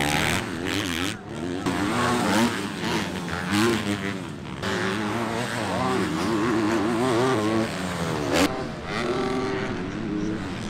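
Motocross dirt bikes racing, their engines revving up and down over and over as they are throttled and shifted.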